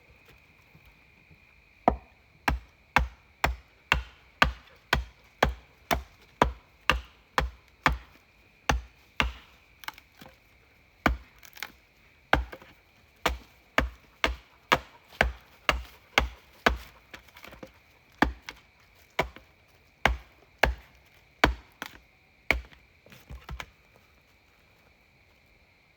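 Firewood being chopped with a hatchet or axe, a long run of sharp, even blows about two a second with a couple of short pauses, to get wood ready for a campfire.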